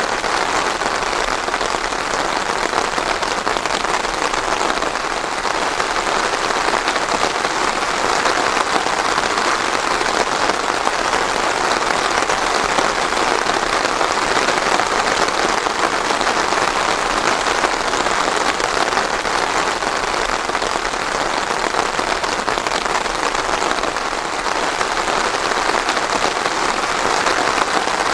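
Steady, heavy rain falling on a surface, a dense even patter with no thunder.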